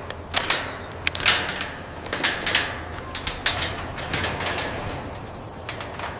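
A run of irregular sharp clicks and creaks, several a second and uneven in strength, over a steady low hum.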